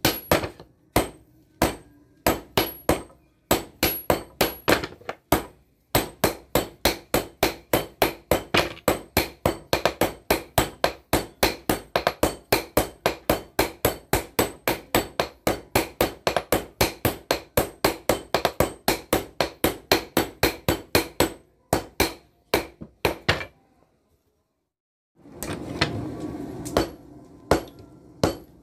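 Hand hammer striking bearing steel on an anvil, as in forging the blade, in a fast even run of about four blows a second with slower strikes before and after. It breaks off briefly near the end, where a short rushing noise comes before the blows resume.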